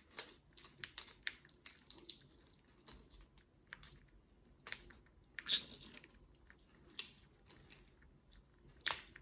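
Green-cheeked conure crunching a piece of walnut shell in its beak: a run of irregular sharp cracks and clicks, thickest in the first couple of seconds, then sparser.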